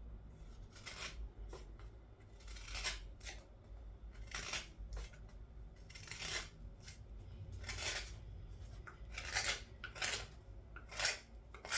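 Carving knife shaving green wood from the inside of a wooden scoop's bowl: about a dozen short scraping cuts at an uneven pace, thinning the bowl wall.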